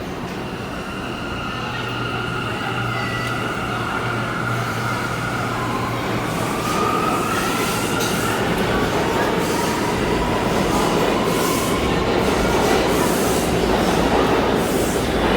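R179 subway train pulling out of the station: its electric traction motors hum and whine with tones slowly rising in pitch as it accelerates, growing louder, with wheel noise and rail clicks building up toward the end.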